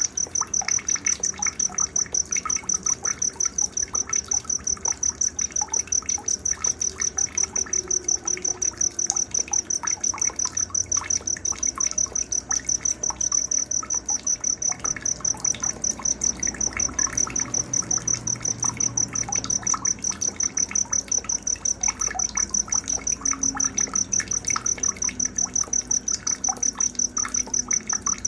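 Night nature soundscape: an insect, a cricket by its sound, chirping in an even high-pitched pulse about three times a second without pause, with scattered short bird chirps beneath it.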